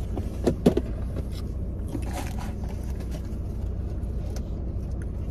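Steady low rumble of a car idling, heard from inside the cabin, with a couple of short sharp sounds under a second in and a brief rustle about two seconds in.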